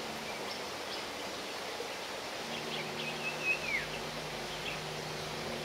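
Outdoor ambience: a steady hiss with scattered bird chirps, among them a short falling whistle about three and a half seconds in, over a faint low hum that comes in about halfway.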